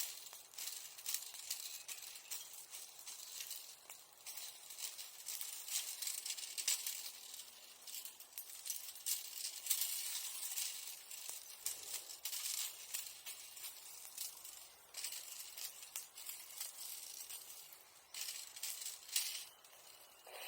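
Bonfire embers crackling, a dense run of fine ticks and hiss that swells and fades in waves.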